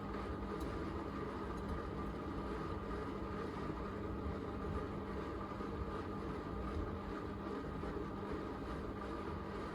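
Miele Navitronic W3985 WPS washing machine spinning after the main wash: a steady motor hum and drum rush, with a constant whine over it.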